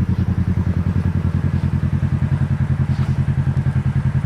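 Kawasaki Teryx KRX side-by-side's parallel-twin engine running steadily at low revs, a regular low pulsing of about ten beats a second.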